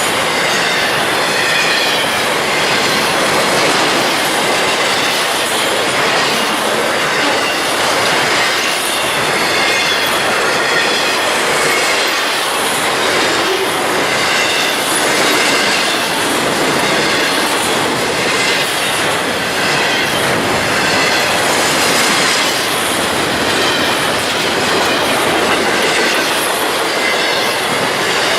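A train's cars rolling past on the track: a steady, loud rush of steel wheels on rail, with a faint wavering high squeal from the wheels.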